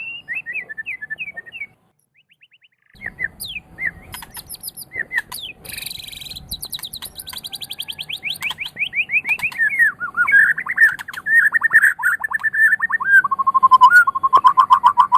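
White-rumped shama (murai batu) singing a varied song. After a short pause about two seconds in, a brief harsh buzzy note comes, then a fast run of repeated notes slides down in pitch and breaks into rapid chattering trills that settle lower near the end.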